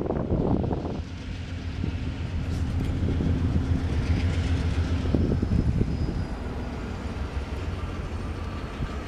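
Diesel locomotive pulling a boxcar away along the track: a steady low engine rumble with a faint steady drone, a brief stretch of wheel clatter about five seconds in, and the sound easing slightly as it recedes.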